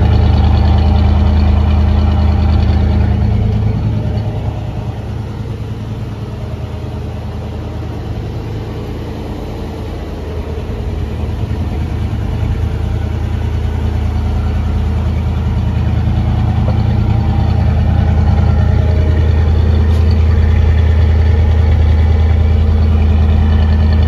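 1966 Ford Mustang engine idling steadily after a cold start; it grows quieter for several seconds from about four seconds in, then louder again.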